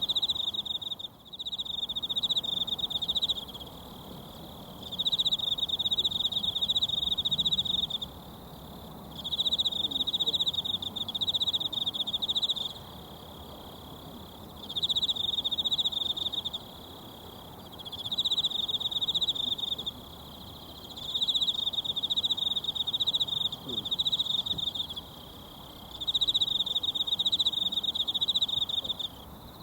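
An insect trilling in repeated bouts of a few seconds each with short pauses between, over the soft steady rush of a mountain stream.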